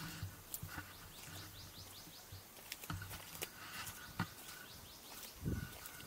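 Faint bird chirping with scattered sharp clicks, and a dull low thump near the end.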